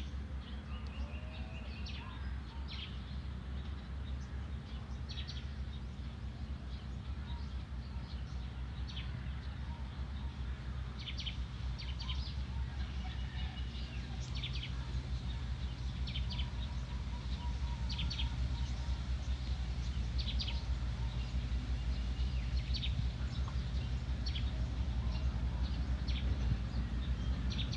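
Small birds chirping in short scattered calls with a few brief trills, over a steady low hum that is the loudest part and grows a little louder near the end.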